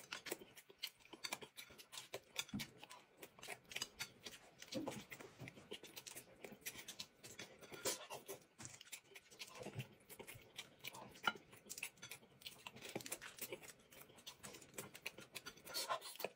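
Faint, close-up eating sounds of a person chewing pan-fried dumplings: irregular small wet smacks and clicks of mouth and chopsticks.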